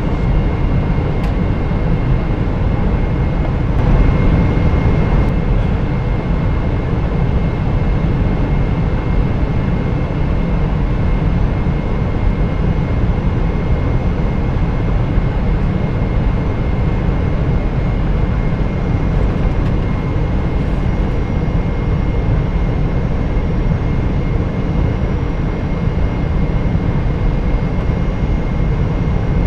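Steady low rumble of engine and airflow noise inside a Boeing 747-400's cabin on final approach, with a faint steady high whine above it.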